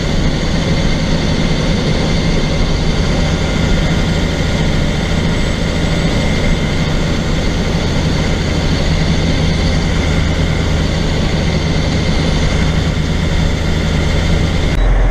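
Steady engine hum and road noise inside a moving vehicle. Near the end it cuts suddenly to a deeper low rumble.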